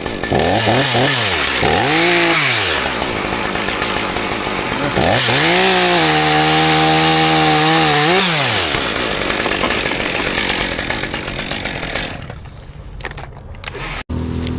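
Chainsaw revved twice in quick bursts, then held at full throttle for about three seconds, as in a cut, before dropping back to a lower run. It goes quieter near the end and stops abruptly.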